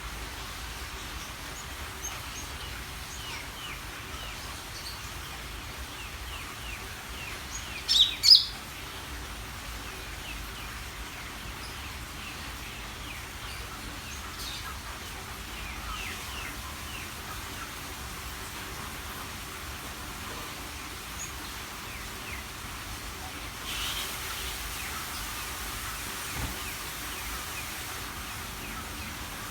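Cucak ijo (green leafbird) singing: a long run of quick chirps and short whistles over a steady hiss, with two loud sharp calls about eight seconds in.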